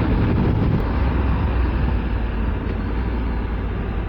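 2022 Honda Africa Twin Adventure Sports' parallel-twin engine running steadily as the bike is ridden, with a constant rush of wind and road noise over it.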